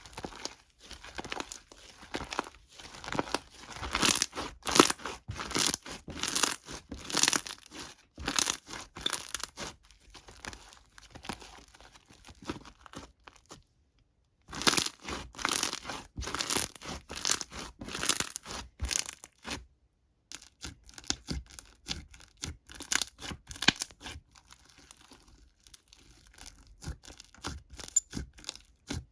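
Crinkling and tearing noises in quick, irregular bursts, with two brief pauses along the way.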